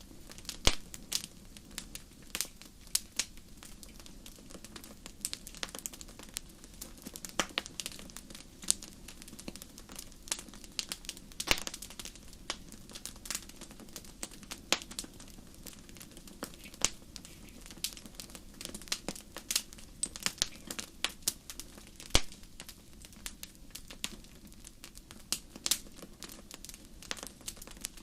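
Wood fire crackling in a fireplace: frequent, irregular sharp pops and snaps over a low steady rustle of burning.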